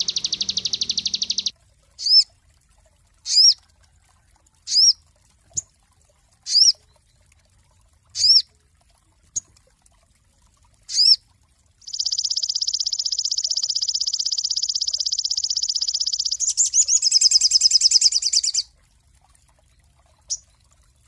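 A sogon singing: a fast high trill that stops about a second and a half in, then single sharp high chirps about every one to two seconds, then a long rapid trill for over four seconds that turns into a harsher rattle before stopping.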